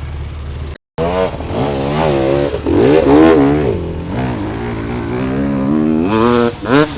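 Off-road vehicle engine revving up and down again and again, as when working a vehicle over rough trail. It cuts out briefly about a second in, then comes back with the repeated revs.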